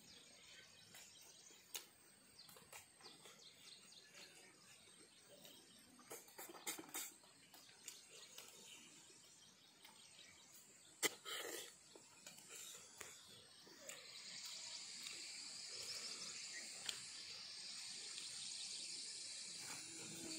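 Faint close-up eating sounds: chewing and lip smacks with scattered small clicks, a few louder near 6–7 and 11–12 seconds in. From about two-thirds of the way in, a steady high chirring of insects joins in the background.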